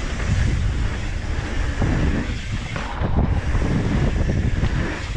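Wind buffeting the microphone with a steady low rumble, and the rolling noise of a mountain bike descending a dirt trail, with scattered short clicks and rattles.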